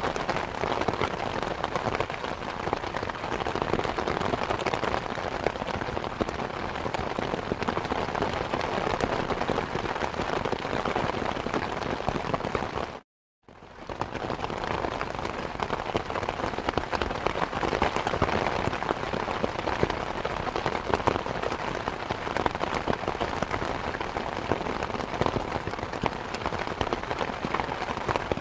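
Rain falling steadily, a dense patter of drops. About halfway through it cuts out to silence for about half a second, then resumes.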